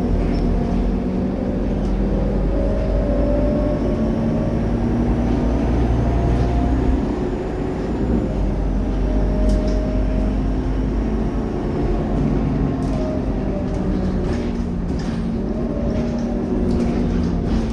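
Scania K230UB city bus's diesel engine running under way, a continuous low rumble whose note rises and falls. Scattered light rattles and clicks come through in the second half.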